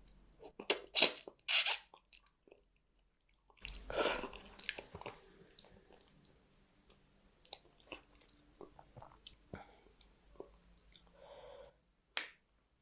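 Close-miked mouth sounds of a person eating rice and fish curry: three loud, crisp crunching bites about a second in, then, after a short silence, steady chewing with small wet clicks and lip smacks.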